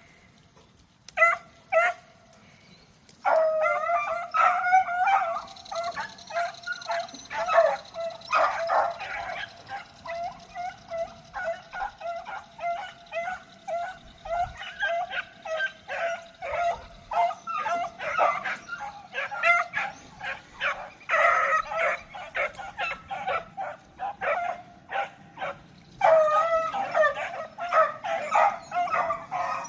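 A pack of beagles baying and barking in chorus while running a rabbit's trail. A few single barks come about a second in. From about three seconds on the barking is steady and overlapping, with a short lull before the pack picks up loudly again near the end.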